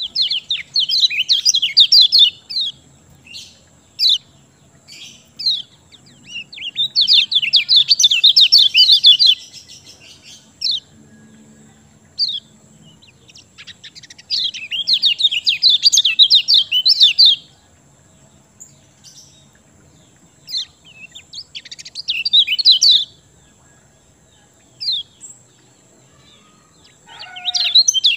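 Kecial kuning songbird singing: bursts of rapid, high chattering trills a few seconds long, repeated four times with short pauses and scattered single notes in between.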